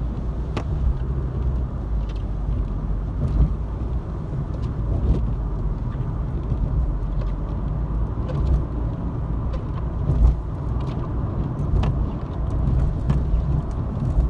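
Car driving in the rain, heard from inside: a steady low rumble of engine and road noise, with scattered sharp clicks.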